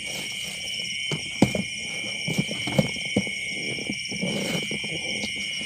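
Steady high trilling of a night insect chorus, crickets in the rice paddy, with a few sharp clicks and knocks over it, the loudest about a second and a half in.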